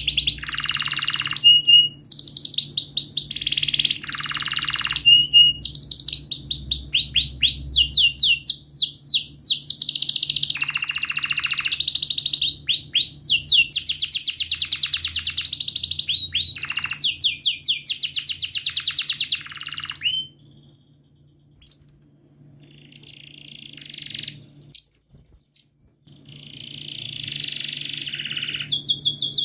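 Domestic canary singing long rolling trills of fast repeated high-pitched chirp notes. The song stops about two-thirds through, leaving a few soft notes, then builds again near the end. A faint steady low hum runs underneath.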